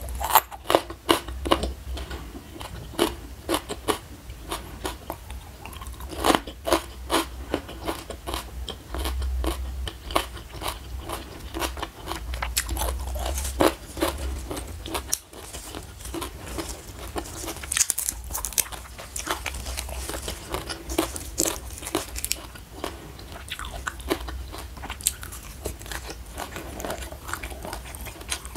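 A person chewing raw lalapan vegetables, young jengkol beans and fresh leafy greens, close to the microphone, with frequent sharp crunches and bites.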